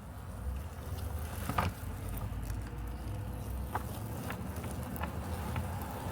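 Robotic lawn mower running with a steady low hum while cutting grass, with a few short sharp clicks over it, the loudest about one and a half seconds in.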